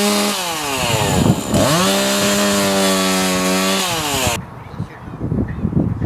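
Chainsaw running at high revs. Its pitch sags about half a second in as it takes load and climbs back, then drops again near the end before cutting off abruptly.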